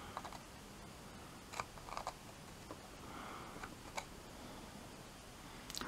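Faint scattered clicks and small handling noises of soldering work on an LED bulb's circuit board, with a soft breath about three seconds in.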